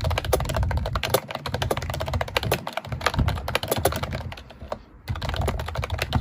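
Slime being squeezed and kneaded by hand, a dense run of sticky little clicks and pops, with a short break near the end.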